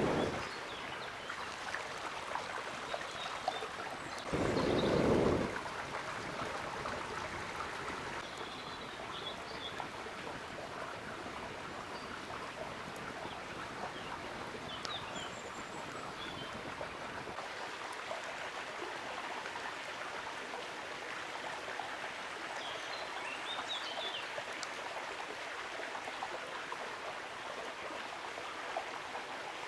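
River water flowing and rushing steadily. About four seconds in there is a brief, louder low burst of noise lasting about a second, and a few faint high chirps are heard now and then.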